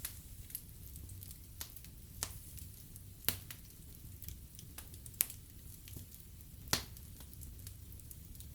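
Wood fire burning in a fireplace, crackling with irregular sharp pops over a low steady rumble and hiss; three louder pops stand out past the middle.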